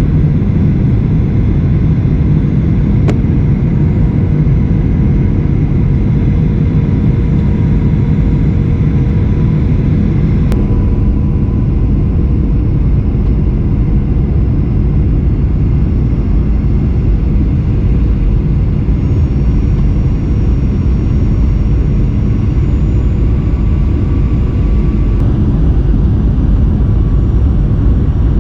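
Cabin noise inside a Boeing 737 airliner in flight: a loud, steady rumble of engines and airflow, mostly low in pitch, with a faint steady hum. A couple of faint clicks come about 3 and 10 seconds in.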